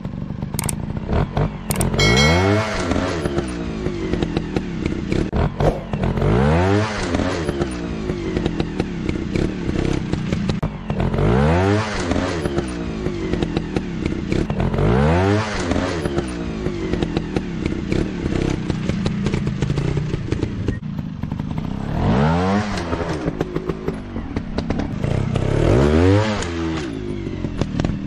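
Dirt-bike engine revving up and down over and over, its pitch swelling and dropping back about six times, roughly every three to five seconds, with steady rattling clicks underneath.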